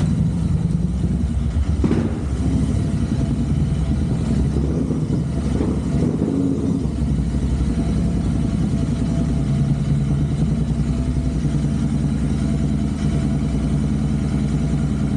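Royal Enfield Interceptor 650's parallel-twin engine running steadily, with a sharp click about two seconds in.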